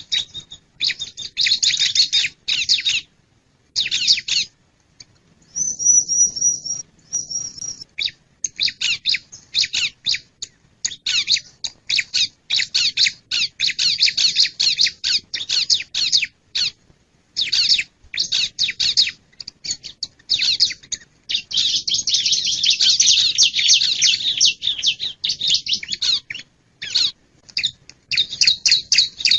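Bar-winged prinia (ciblek) singing: quick runs of sharp, high chirps in rapid bursts with short pauses, a brief steady high whistle about six seconds in, and a long unbroken stretch of dense chatter in the second half.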